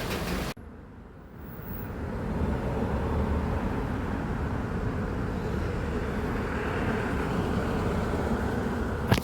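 Steady low rumble of vehicle noise that swells up over a couple of seconds after an abrupt cut.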